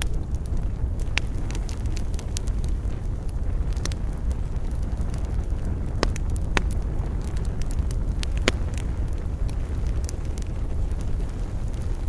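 Wood fire burning: a steady low rumble with scattered sharp crackles and pops, a few louder pops around the middle.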